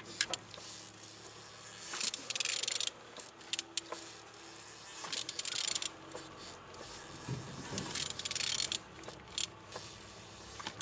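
A removed Renault K9K diesel engine being turned over by hand with a wrench: scattered metallic clicks and three longer bursts of rattling about 2, 5 and 8 seconds in. The engine turns freely, so it is not seized.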